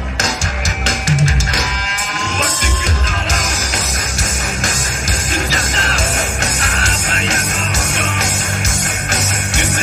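A band playing loud rock music live, with drums and guitar.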